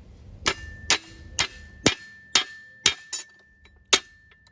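Hammer blows on a steel part being bent by hand, about two strikes a second, the metal ringing on a steady high note between blows.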